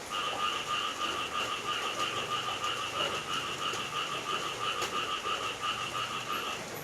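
Frogs calling in a fast, pulsing chorus over a faint hiss of rain, with a single sharp tick about two-thirds of the way through. The calling stops briefly near the end.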